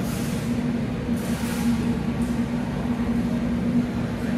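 Steady low machine hum with a constant pitched tone. Two brief soft hisses come over it in the first two seconds.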